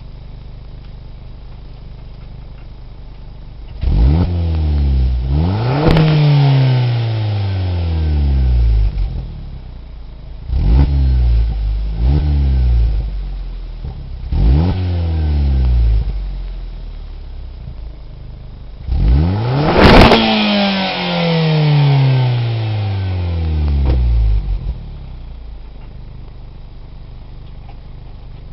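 Opel Corsa OPC's 1.6-litre turbocharged four-cylinder engine, through a Lexmaul aftermarket exhaust, idling and then revved about five times. Each rev rises quickly and falls back to idle, the longest and loudest about two-thirds of the way through, before it settles to a steady idle near the end.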